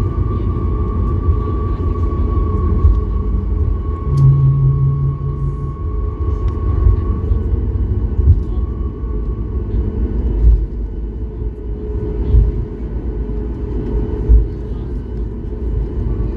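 Boeing 737 MAX 8 cabin noise on the ground after landing: a steady rumble with a thin CFM LEAP-1B engine whine that slowly falls and fades over the first several seconds. A few thumps come through in the second half.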